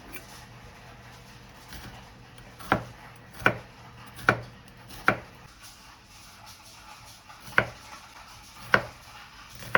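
Kitchen knife chopping on a cutting board: about seven separate, unevenly spaced chops beginning about three seconds in, over a faint steady hum.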